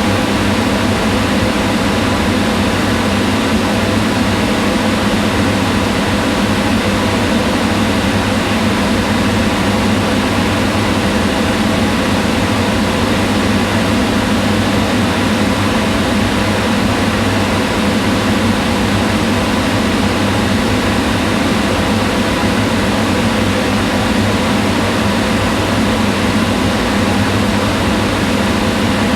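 Kitchen range hood fan running steadily: an even whooshing rush of air with a steady low hum.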